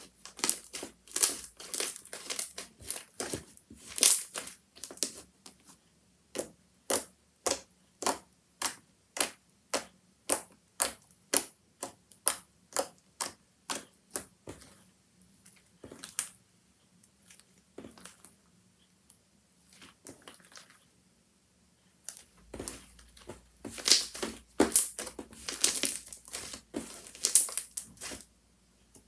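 Handmade slime being squished, giving crisp clicking pops. They come densely at first, then at about two a second, thin out for a few seconds, and crackle densely again near the end.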